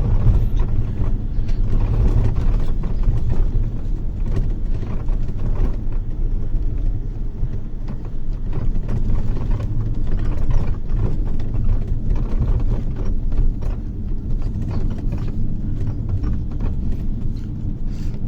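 Inside a moving bus's cabin: a steady low rumble of engine and road noise, with many small rattles and knocks throughout.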